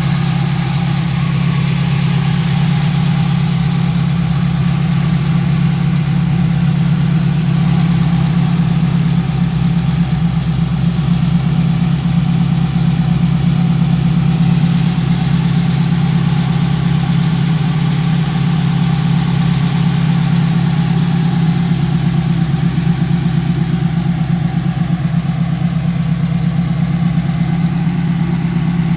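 1968 Chevrolet Camaro's engine idling steadily, a loud, even low pulsing that holds without revving.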